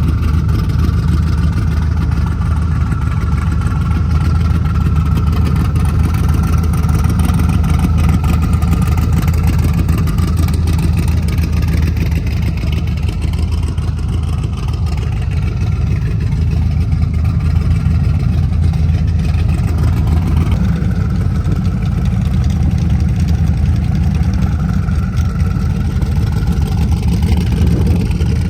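Vehicle engine running steadily with a loud low rumble that shifts slightly in pitch about two-thirds of the way through.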